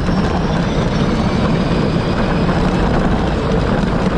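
Power Wheels ride-on car driving at speed: steady, loud motor and gearbox noise mixed with tyre and wind rush.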